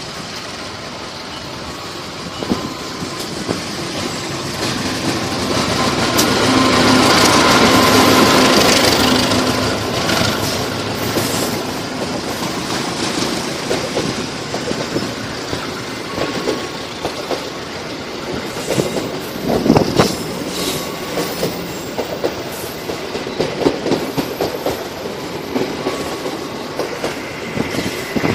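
CC 201 diesel-electric locomotive hauling a passenger train past at speed, its engine loudest about seven to nine seconds in. The carriages then roll by with a rhythmic clickety-clack of wheels over the rail joints.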